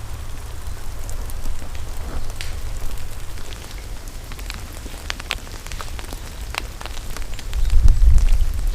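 Steady rain pattering, with scattered sharp ticks of individual drops. A deep rumble runs underneath and swells near the end.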